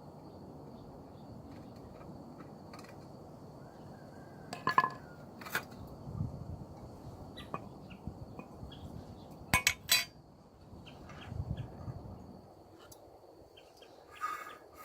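Metal ceiling fan parts clinking and clicking as they are handled, a few sharp clicks standing out, with a scraping rattle from inside the fan that sounds like a leaf caught in it.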